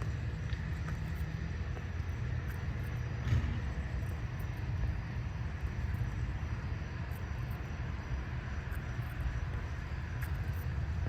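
Steady low rumble, with one short knock about three seconds in.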